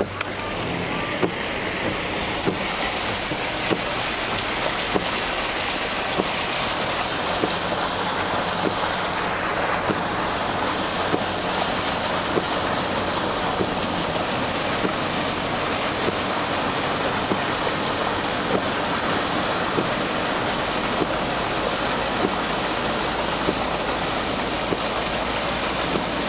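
Storm runoff rushing down a flooded country lane like a river, a steady loud rush of water, with scattered sharp ticks.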